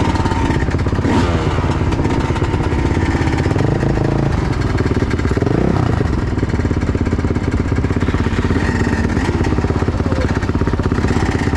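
Dirt bike engine running with a rapid, steady firing pulse as the bike rides off. The revs climb and fall about halfway through.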